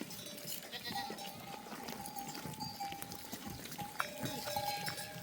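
Flock of sheep and goats bleating, with a few bells clinking among the animals.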